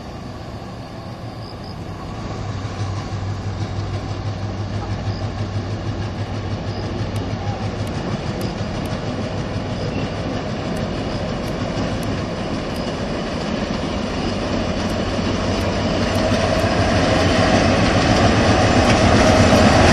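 Two Sri Lanka Railways M6 diesel-electric locomotives hauling a passenger train, their engines running with a steady low hum that grows steadily louder as the train approaches.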